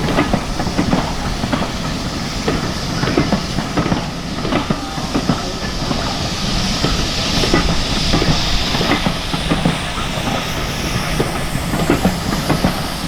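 Steam train running past, its wheels clicking over the rail joints, with a hiss of steam that swells midway.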